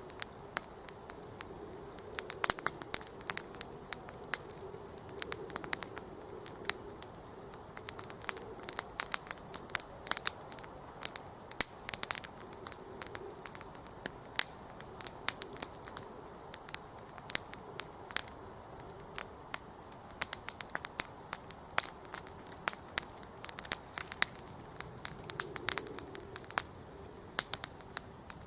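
Wood campfire crackling: frequent irregular sharp pops and snaps of varying loudness over a soft steady hiss of burning.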